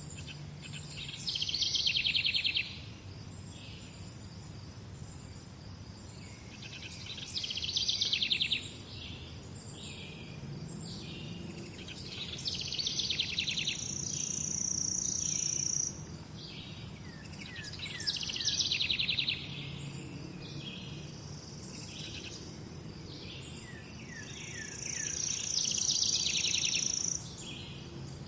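Songbirds singing: a rapid trilled song phrase of a second or two repeats about every five to six seconds, with shorter chirps and a higher whistled note between them, over a faint steady background.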